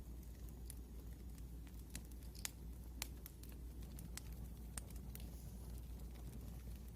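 Wood fire crackling: irregular sharp pops and snaps, a few a second, over a low steady rumble.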